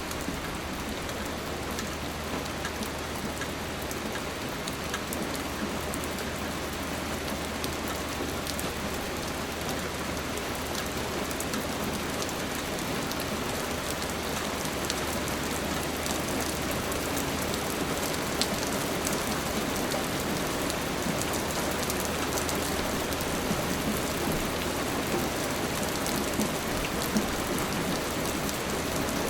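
Steady rain falling, an even hiss scattered with the sharp ticks of individual drops.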